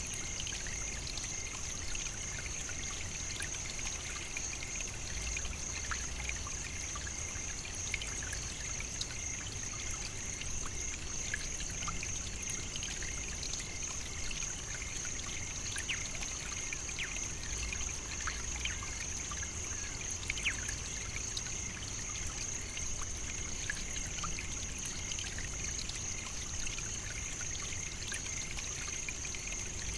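African savannah nature ambience: a steady high-pitched drone with scattered light ticks and a low rumble underneath.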